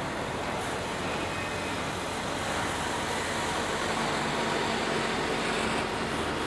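Intermodal freight train's well cars, loaded with double-stacked containers and trailers, rolling past at speed: a steady noise of steel wheels running on the rails that swells slightly in the middle.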